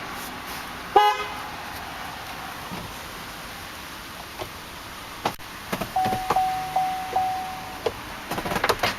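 A single short honk of the vehicle horn about a second in. Later comes a steady electronic tone with a click about every half second for about two seconds, then a quick run of switch clicks near the end.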